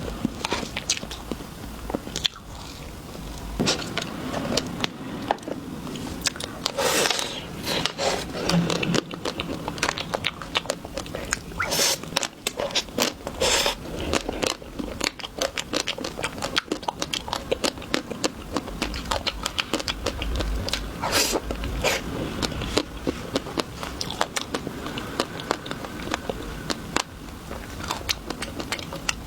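Close-miked eating of chocolate and ice cream: bites and chewing, a dense run of small crackles and clicks with a few louder crunches.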